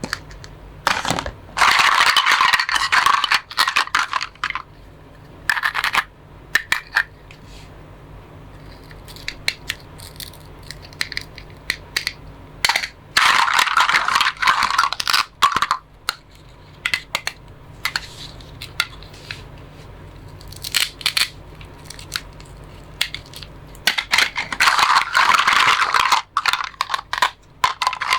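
Plastic toy fruits and vegetables being cut apart with a toy knife: three long rasping, tearing stretches, near the start, in the middle and near the end, with sharp plastic clicks and clacks between them.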